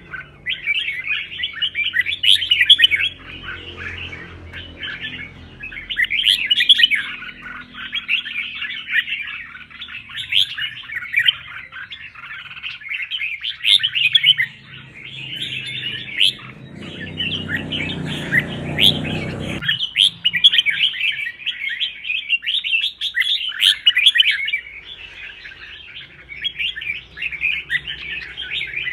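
Red-whiskered bulbul singing in quick, run-on phrases with only short breaks. A low rumble comes in about two-thirds of the way through and cuts off suddenly a few seconds later.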